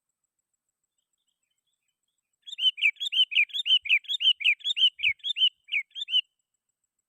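Sooty-headed bulbul (kutilang) giving a fast run of chirping calls, about five notes a second, which starts about two and a half seconds in and stops after some three and a half seconds. It is the lively 'gacor' call of a bird calling out a rival.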